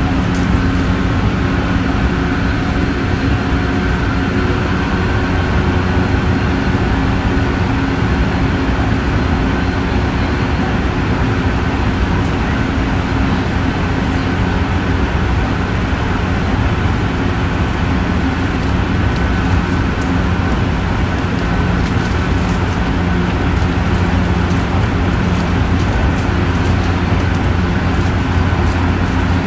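Tsukuba Express electric commuter train running at a steady speed, heard from inside the car. A continuous rumble of wheels on rail, with a steady motor hum underneath and no change in speed.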